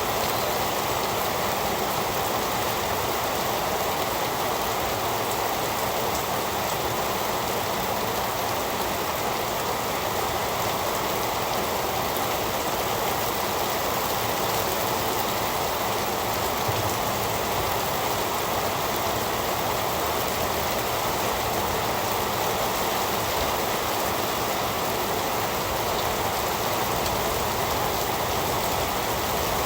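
Heavy rain falling steadily, a dense even hiss of drops with no letup and no thunder.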